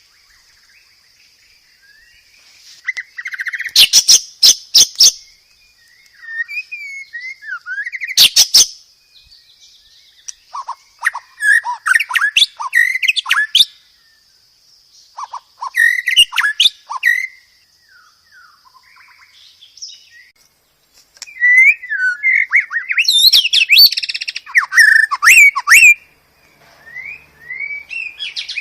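White-rumped shama (murai batu) singing a varied song in separate bursts: gliding whistles, warbles and rapid sharp clicking notes, the loudest clicks about four and eight seconds in. A steady high-pitched buzzing runs beneath during the first half.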